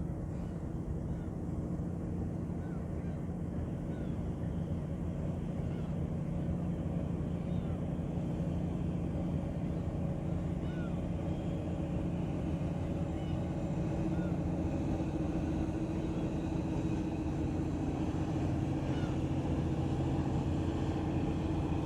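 A ship's engine running steadily with a low, even hum, growing slightly louder.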